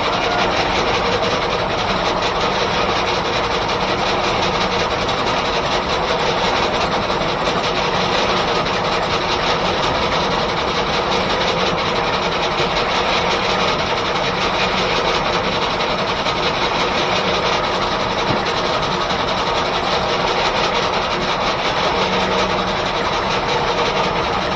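Steam-engine-driven 1880s R.R. Howell left-hand sawmill running, a steady rapid mechanical clatter that holds even throughout.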